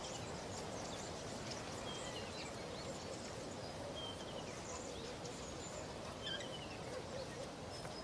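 Field ambience of open grassland: a steady faint hiss with a few short, falling bird chirps scattered through it.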